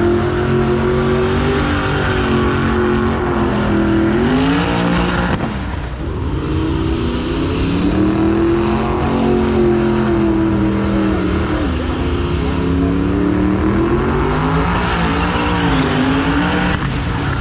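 Car engine held at high revs, its pitch swinging up and down several times with a brief drop about six seconds in, as in a burnout run.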